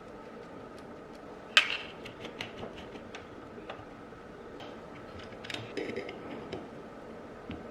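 A series of light clicks and taps, with one sharp click about one and a half seconds in and a small cluster of taps later on, over a faint steady hum.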